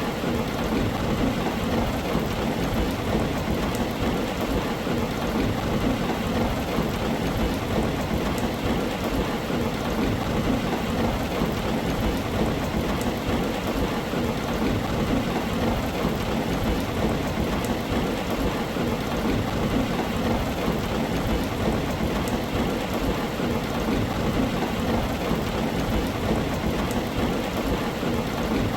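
Heavy rain drumming steadily on a tin roof, with a constant low rumble of thunder underneath.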